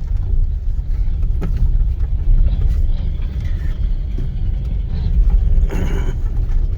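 Steady low rumble of a car driving slowly over a rough, unpaved construction road, heard from inside the vehicle, with a few light knocks and rattles.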